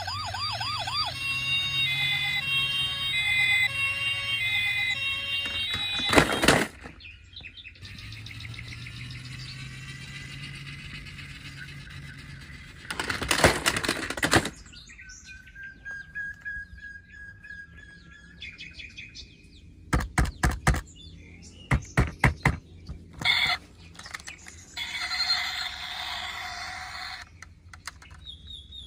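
Electronic sound effects from battery-powered toy cars: a warbling toy siren, then a beeping electronic jingle, broken by several loud clatters of hard plastic.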